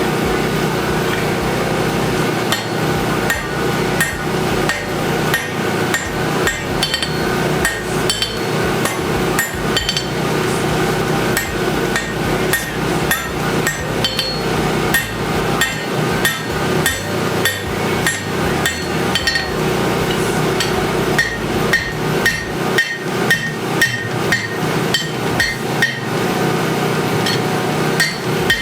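Hammer blows on hot steel on an anvil, forging a 1-inch rebar bar into a sword guard; each strike rings briefly. The blows are uneven at first, then settle into a steady beat of about two a second in the last part, over a constant background rush.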